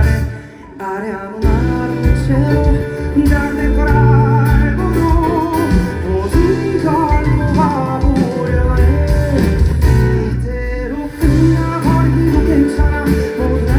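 Live band music with guitar and bass under a wavering melody line. The music drops briefly just after the start, then comes back in.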